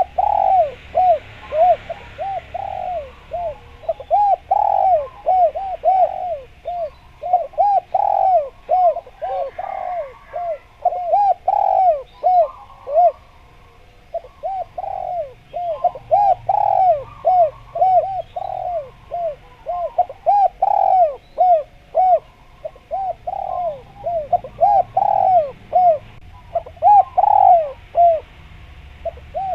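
Spotted dove (derkuku/tekukur) cooing vigorously, in quick repeated phrases of arched notes, with a short pause about halfway.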